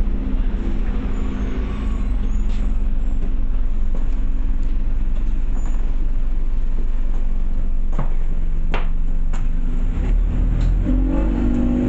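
Scania OmniCity bus heard from inside, its diesel engine running steadily with a low hum. A few sharp rattles come about eight to nine seconds in, and near the end the engine note rises as the bus pulls away.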